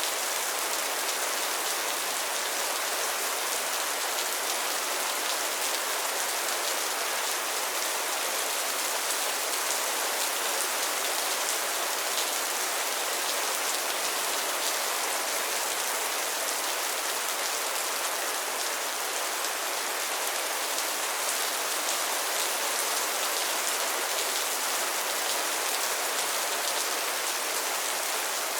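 Steady rain falling on a pond's water surface and lily pads: an even hiss of many small drop patters.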